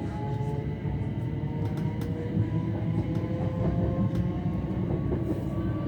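Inside a c2c electric train: a low running rumble with the traction motors' whine rising slowly in pitch as the train gathers speed, and a few faint clicks.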